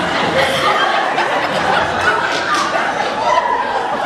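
An audience laughing and chuckling together, with scattered voices mixed in.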